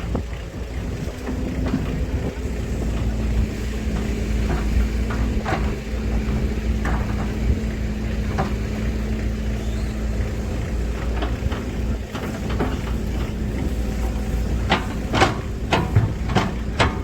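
Heavy diesel machinery running steadily with a low rumble and a constant hum, with scattered sharp knocks and clanks that come thicker near the end.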